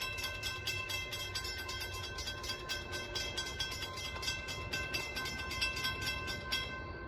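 Railroad grade-crossing bell ringing rapidly, about five strikes a second, over a low rumble; the ringing cuts off near the end.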